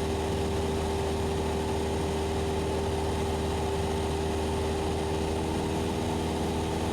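The Cessna 172SP's four-cylinder Lycoming engine and propeller droning steadily in level cruise, heard from the cockpit as an unchanging hum with a few steady tones.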